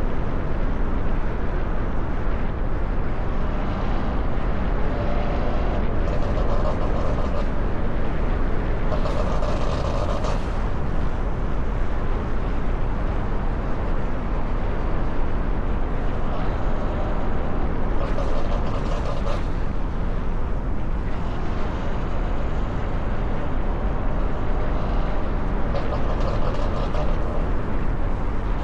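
A car on the move: steady, unbroken wind and road rush with engine noise, heaviest in the low end.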